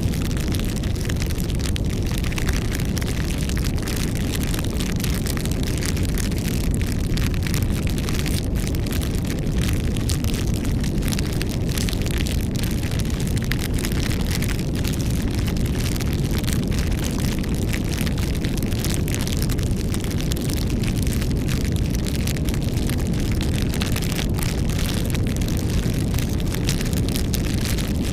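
Bonfire burning: a steady low rumble of flames with a dense run of small crackles and pops from the burning wood.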